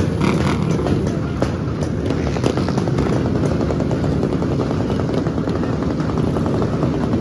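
Motorcycle engine running steadily and loudly, with a fast, even firing pulse.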